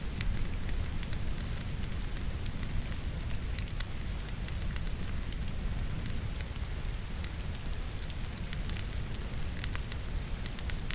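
Firewood burning in a fireplace, crackling with frequent small sharp pops, over the steady hiss of falling rain.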